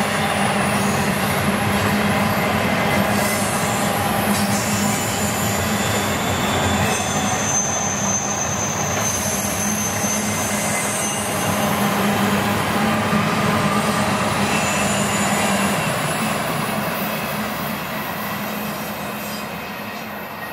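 Double-stack container well cars of a freight train rolling past: a steady roar of steel wheels on the rails, with thin high-pitched wheel squeals that come and go. The sound fades in the last few seconds as the end of the train goes by.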